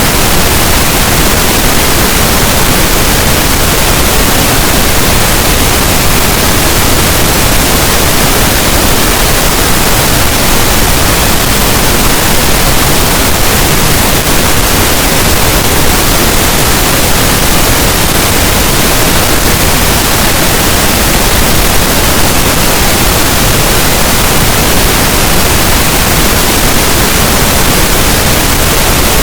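Steady, unbroken pink noise: an even hiss with no changes or interruptions.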